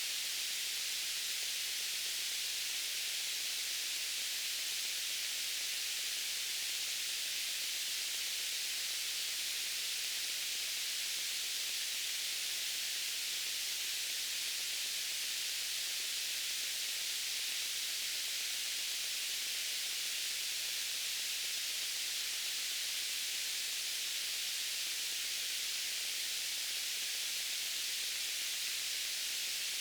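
Steady white-noise hiss from a sleep-aid noise track, even and unchanging, weighted toward the high, hissy end.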